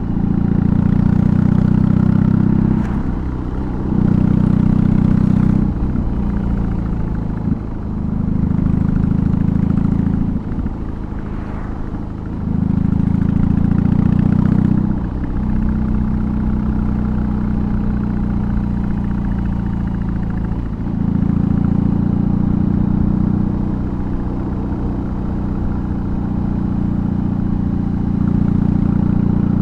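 2022 BMW R18's 1,802 cc boxer twin with a custom exhaust, heard while riding. The throttle rolls on in pulls of two to three seconds, with short dips between them. After about fifteen seconds it settles into steadier running.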